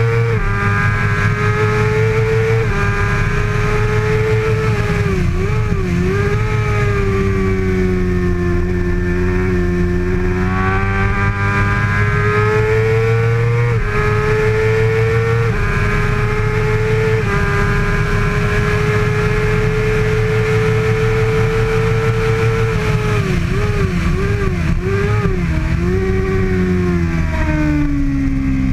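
Kawasaki ZX-6R inline-four engine running hard at racing speed: the pitch climbs under throttle and steps down several times with each gear change, and wavers quickly up and down in a few spots.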